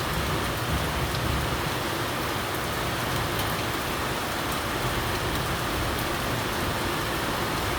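Steady rain falling, an even continuous hiss with a few faint drop ticks.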